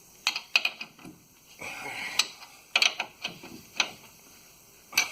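Irregular sharp metallic clicks and clanks of hand tools on the new rear U-bolt nuts of a truck's leaf-spring axle as they are snugged tight.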